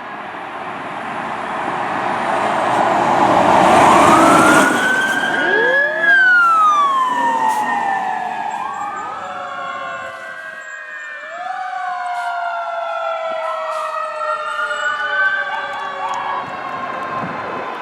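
Fire truck responding with its sirens wailing, passing close by about four seconds in with loud engine and road noise; the siren pitch slides lower as it moves away, with more than one siren sounding over one another.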